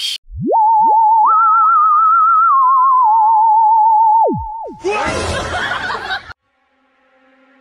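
A warbling electronic tone slides up from a low pitch, holds with a fast vibrato while a second, higher tone steps in and glides back down, then slides back down about four and a half seconds in. A short noisy burst follows, then it goes almost quiet.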